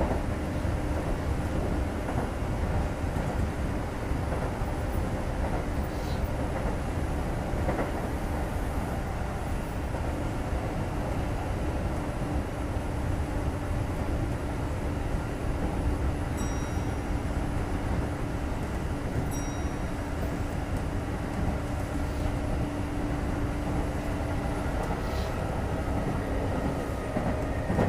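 Kintetsu 2430 series electric train running between stations, heard from inside the car: a steady rumble of wheels on rails with a constant hum and a few faint ticks.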